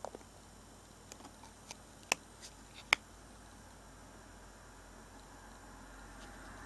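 A few light clicks and taps of small hard objects being handled, with two sharper clicks about two and three seconds in, over a faint steady hiss.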